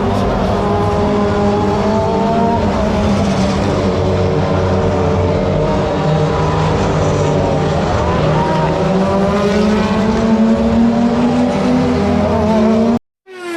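Super GT race cars' engines running hard on track, several engine notes overlapping and rising and falling slightly as cars go by. The sound cuts off abruptly near the end.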